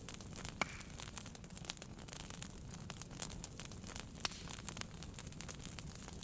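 Wood fire burning in a fireplace: a low steady rumble of flame with frequent small crackles and pops, two sharper pops standing out, one just after the start and one a little past the middle.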